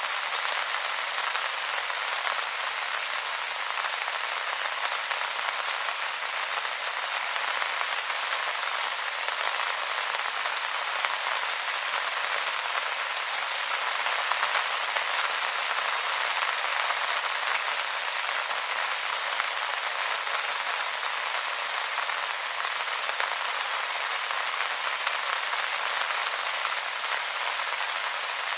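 Steady rain falling on wet leaves, a dense even patter of many small drops.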